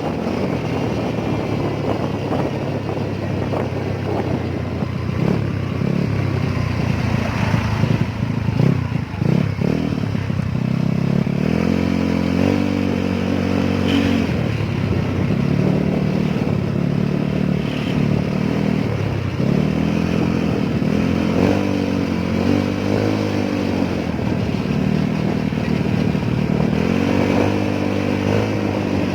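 Motorcycle engine heard while riding, with rumble and wind noise at first. From about a third of the way in, the engine note climbs and drops again and again as the bike speeds up and eases off.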